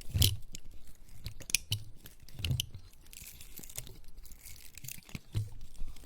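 Large dry pine cone handled close to the microphone, its scales giving irregular crisp crackles and scratches, with soft low thumps from the handling and a stretch of steady rustling about halfway through.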